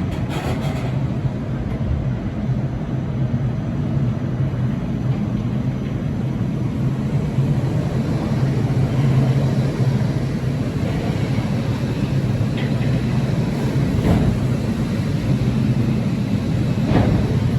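A train at a station platform: a steady low humming drone, with two short knocks in the last few seconds.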